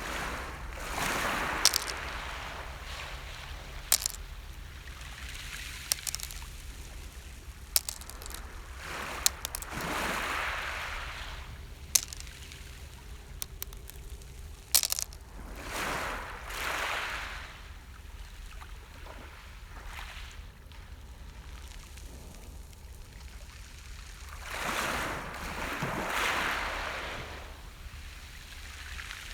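Small sea waves breaking and washing up on the shore, a swell of surf every six to nine seconds with quieter wash between. Scattered sharp clicks come between the waves.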